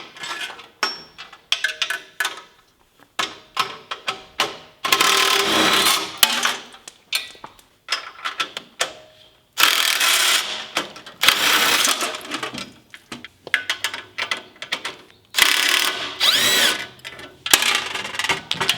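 Hand tools working on a sprint car while it is being stripped for engine removal: a ratchet wrench clicks in several runs of a second or more, with sharp metal clinks and knocks between them.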